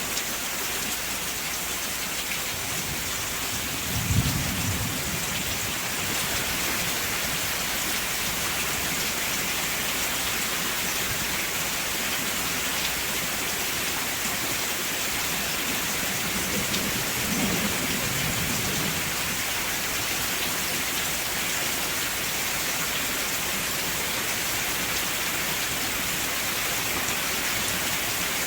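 Steady rain falling, with two low rolls of thunder: a short one about four seconds in and a longer, softer one around seventeen seconds in.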